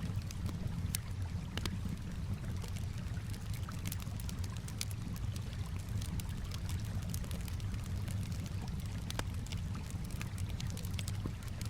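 Campfire crackling with many scattered sharp pops and ticks, over a steady low rush of calm water lapping.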